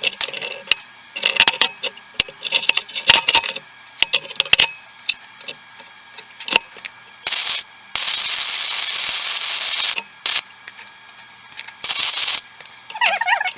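Gasless welding arc: short crackling runs and bursts with sharp metallic ticks and clicks, and one steady run of about two seconds a little past the middle.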